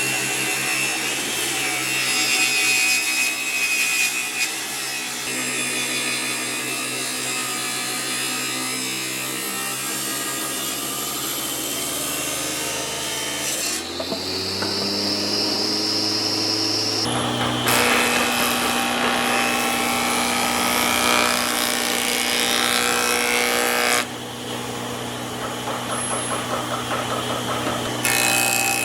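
Woodworking power tools running and working wood, a steady machine hum with a rasping, sawing noise over it. The sound changes abruptly several times as one tool or cut gives way to another.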